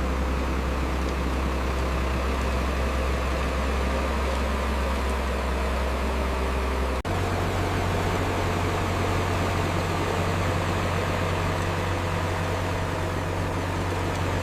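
Heavy construction machinery's diesel engine running steadily with a low drone; about halfway through the sound cuts abruptly to another steady engine drone at a slightly different pitch.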